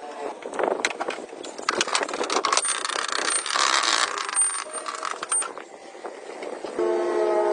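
Metal parts and tools clinking and clattering during motorcycle workshop work: a run of sharp metallic clicks and knocks, a harsh scraping stretch about three seconds in, and a brief squeal with several pitches near the end.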